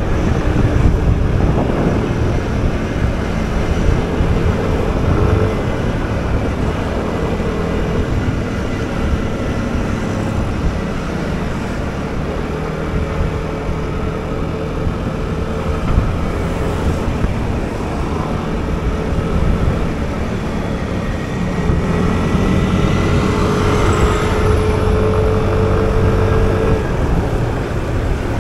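Motor scooter engine running steadily at riding speed, over a dense rumble of wind on the microphone.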